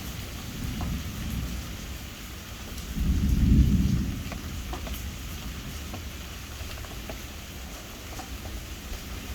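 Distant thunder rumbling continuously over steady rain, swelling to a louder roll about three seconds in before easing back.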